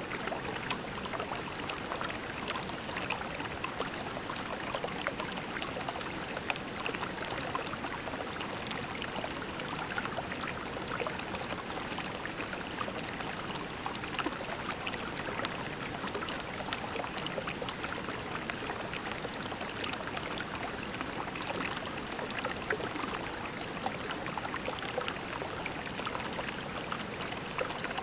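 A small stream babbling steadily over pebbles, a continuous rush of water with many small splashes and trickles.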